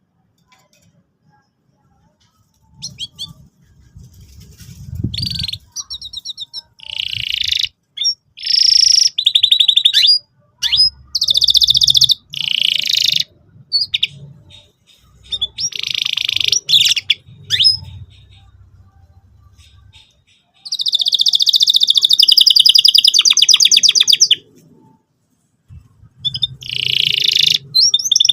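Domestic canary singing in separate bursts of chirps and fast trills with short pauses between them, starting about three seconds in, with one long rolling trill about three-quarters of the way through.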